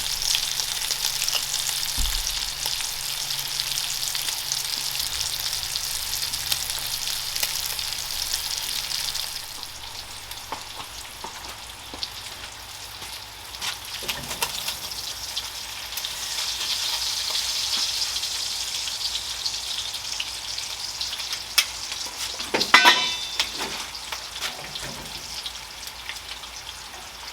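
Bacon sizzling and popping in a Wagner cast-iron skillet. The hiss eases about a third of the way in and swells again, and there is a brief louder clatter near the end.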